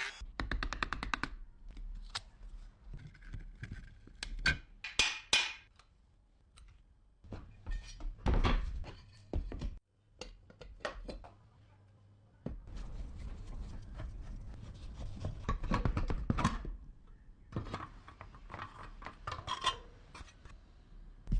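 Irregular knocks, clicks and scraping rub of old fan parts being handled and worked on, with short pauses between bouts.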